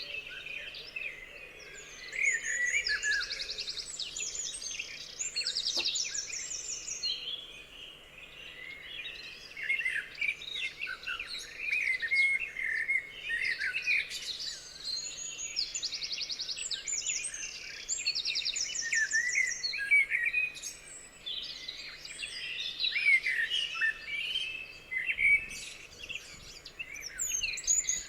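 Several songbirds singing and calling together: a busy mix of short chirps and whistles, with a fast high trill that comes back every few seconds.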